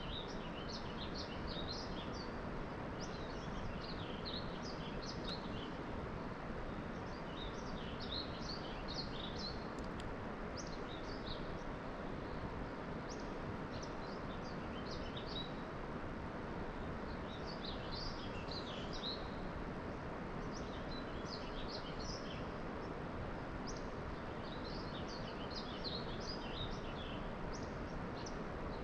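Small birds chirping again and again over a steady outdoor background hiss.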